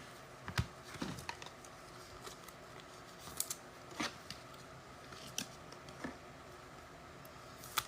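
Faint, scattered clicks and light rustles of trading cards and their cardboard packaging being handled, with no regular rhythm.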